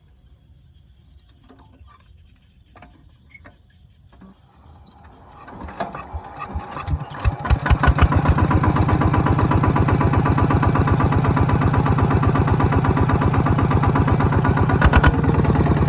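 A Kubota farm machine's engine starting about five seconds in, after a few light clicks and knocks, then settling into steady, loud running with an even, rapid beat.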